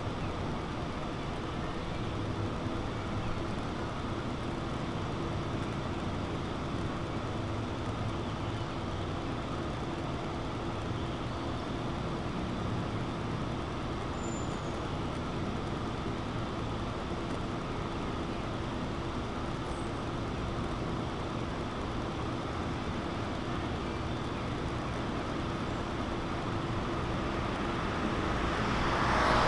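Steady city street traffic noise, with a vehicle approaching and passing louder near the end.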